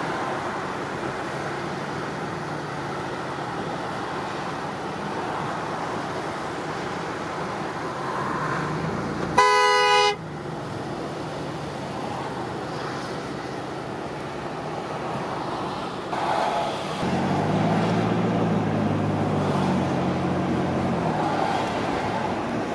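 Road traffic noise from slow, jammed traffic. About nine seconds in, one short, loud vehicle horn honk sounds. Later a heavy engine's low, steady drone rises above the traffic for a few seconds.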